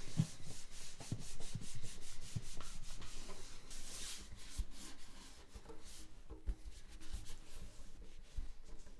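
Soft cotton cloth rubbing over the wooden body of an acoustic guitar in repeated, irregular wiping strokes, with a few light knocks.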